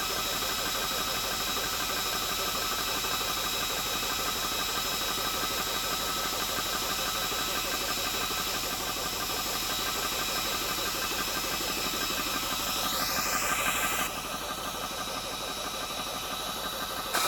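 ToAuto A3 high-pressure PCP air compressor running steadily, its piston pumping in a fast even rhythm under a steady whine, as it fills an air tank toward 3,000 psi. The sound dips a little about 14 seconds in.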